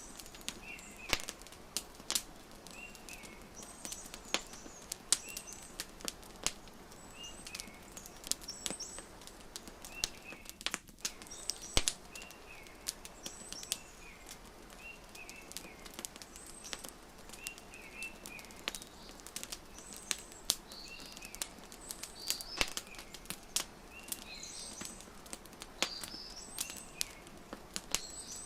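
Wood fire crackling with irregular sharp pops, over a bird chirping short calls every second or two.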